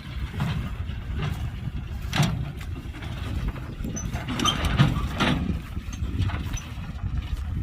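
Heavy diesel earthmoving machinery running with a steady low rumble, with irregular metallic clanks and a few short squeaks near the middle.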